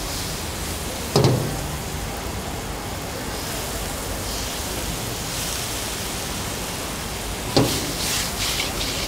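Mantis shrimp and minced garlic frying in a wok over a gas burner: a steady sizzling hiss, with two sharp knocks of the wok, one about a second in and one near the end as it is tossed.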